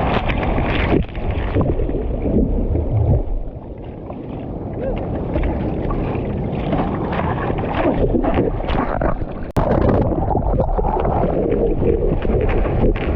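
Wind buffeting the microphone over rushing, sloshing surf and water, with a brief drop about ten seconds in.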